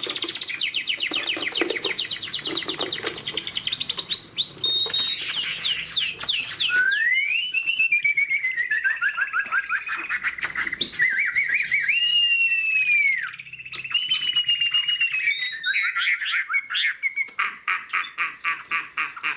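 Chinese hwamei (Garrulax canorus) singing a long, varied song: fast rattling trills first, then loud slurred whistles that slide up and down, a brief pause about two-thirds of the way through, and fast trills again near the end.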